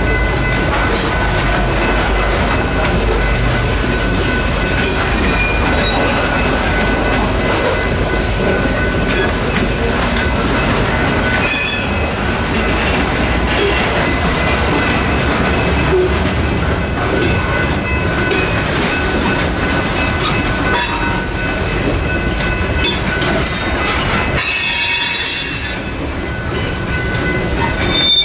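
A train rolling through a level crossing: a steady rumble with the wheels clacking over the rail joints. The crossing's General Signals Type 3 electronic bells ring steadily throughout. About 25 seconds in, the rumble drops and a brief high wheel squeal cuts through.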